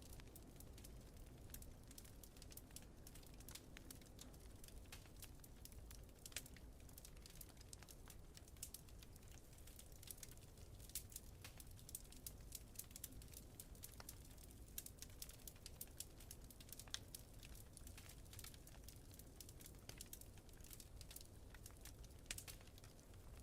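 Wood fire crackling, with frequent irregular snaps and pops, over a faint steady low rumble of wind.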